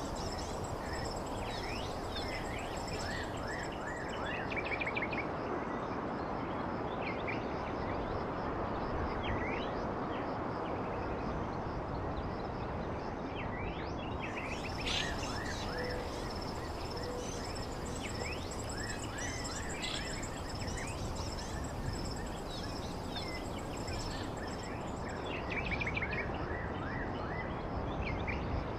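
Wild birds chirping in many short, scattered calls over a steady background hiss, with a continuous high insect trill running underneath.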